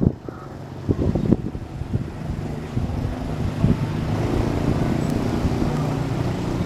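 Passenger train's diesel locomotive running, a steady low drone that grows from about three seconds in. A few wind buffets hit the microphone in the first second and a half.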